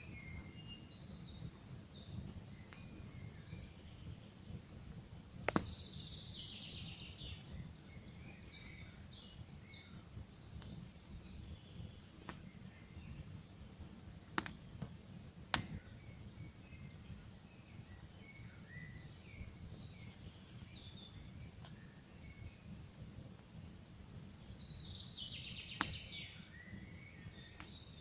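Campfire burning with a steady low rumble and a few sharp crackling pops, under continual songbird chirping; twice a bird gives a longer song that falls in pitch.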